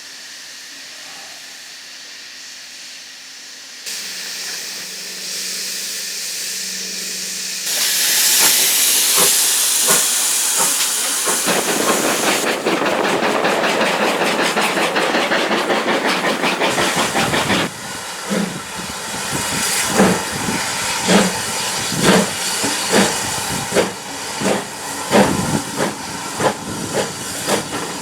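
Ex-GWR steam tank locomotive letting off a loud hiss of steam. About halfway through, a run of separate exhaust beats starts, roughly one a second, as it works away.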